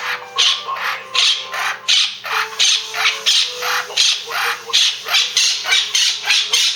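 Blue Quaker parrot (monk parakeet) calling in a steady run of loud, harsh squawks, about two a second.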